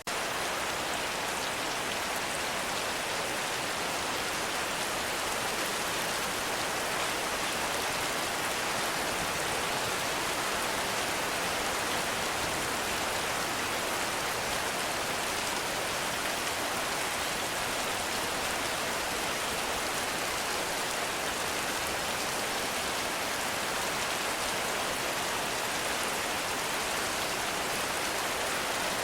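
Heavy rain falling steadily: a dense, even hiss of countless drops that holds at one level throughout.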